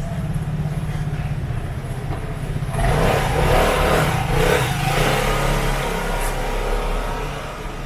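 City street traffic: motor vehicle engines run steadily with a low hum. From about three seconds in, a vehicle accelerates and gets much louder, easing off around six seconds.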